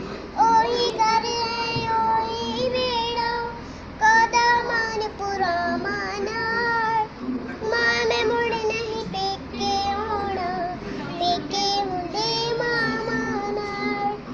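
A child singing a Punjabi song in a high voice, holding long, wavering notes in phrase after phrase.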